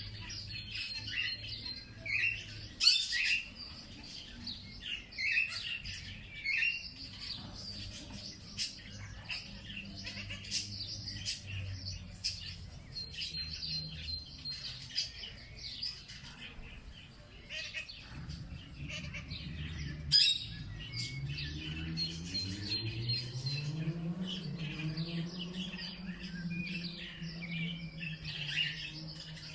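Many birds chirping and calling at once in a busy chorus, with a few sharp, louder calls about 3 seconds and 20 seconds in. A low hum runs underneath, rising in pitch about two-thirds of the way through and then holding steady.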